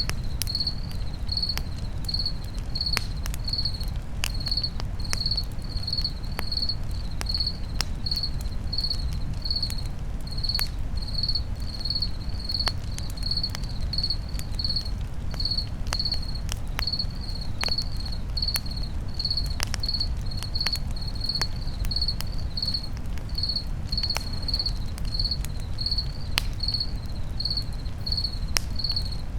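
A cricket chirping steadily at about two high chirps a second, over a campfire's irregular crackles and pops and a low steady rumble of the burning fire.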